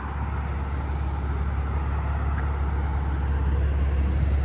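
Steady rumble of expressway traffic, growing slightly louder as vehicles pass.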